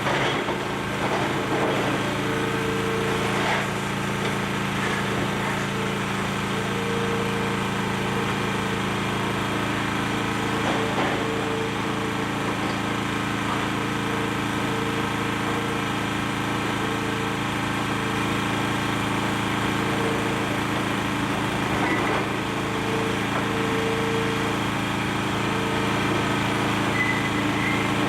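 Excavator's diesel engine running steadily at work, with a higher tone that comes and goes every second or two and a few faint crunches of demolition debris.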